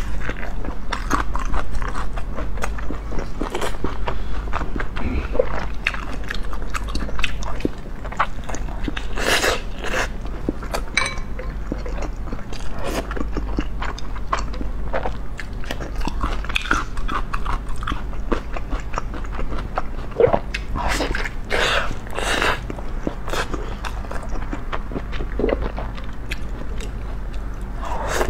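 Close-up eating sounds of large steamed buns (baozi): repeated biting and wet chewing with lip smacks and small mouth clicks at an irregular pace, over a steady low hum.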